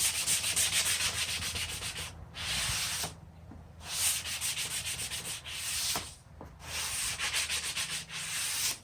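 Hand sanding block being rubbed briskly back and forth over the edge of a wooden workpiece. The rasping strokes come at about five a second, in four runs broken by short pauses.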